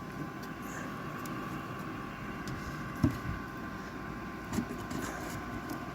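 Chinese diesel air heater running, its blower fan giving a steady whirring hum, with a light knock about three seconds in.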